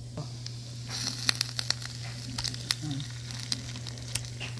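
Chopped onion and garlic frying in hot oil, sizzling and crackling with sharp pops that start about a second in as canned sardines go into the pan. A steady low hum runs underneath.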